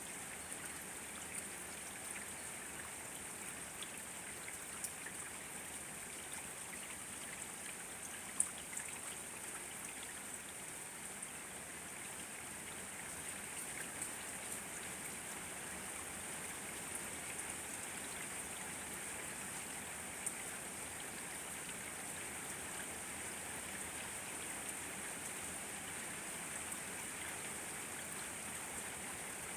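Steady rain falling, with occasional sharper individual drop hits; one stands out about eight seconds in.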